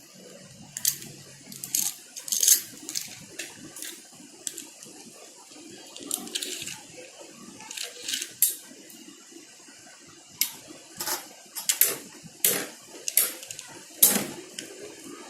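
Two Beyblade spinning tops battling in a stadium: a low spinning rumble broken by many sharp, irregular clinks as their metal wheels strike each other, with the loudest hits about two and a half seconds in and near the end.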